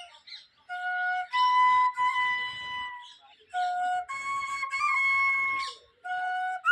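Bansuri (bamboo flute) playing a slow melody of long held notes, stepping between a lower and a higher note with short breaks between phrases.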